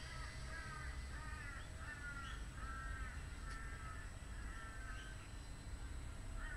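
A bird calling a long run of short repeated calls, about two a second, fairly faint over a steady low rumble.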